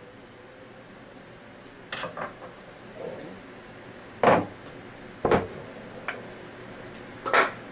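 A mallet striking a flat-head screwdriver to drive the G seals out of an Anest Iwata ISP250 scroll pump: about five sharp metallic knocks, a second or two apart.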